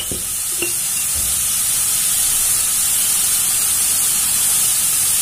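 Chopped onion, carrot and cabbage frying in oil in a kadai, a steady sizzle, with a couple of light taps near the start.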